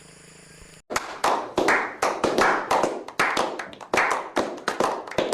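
A quick series of sharp claps, about three a second, starting about a second in after a faint steady hum.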